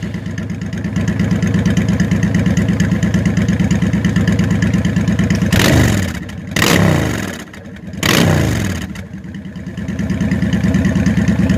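Freshly started 2004 Honda Shadow Aero 750's liquid-cooled V-twin with Cobra aftermarket exhaust, idling with a steady pulsing beat. It is revved three times, about five and a half, six and a half and eight seconds in, each rev falling back to idle.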